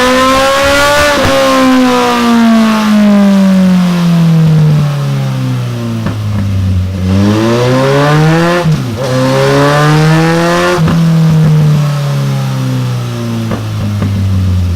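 Suzuki GSF1250 Bandit's inline-four engine through a Delkevic DS70 carbon fibre silencer, loud throughout. It revs up for about a second and winds down slowly, then climbs again twice with a brief sharp drop in revs between the climbs, and winds down slowly once more.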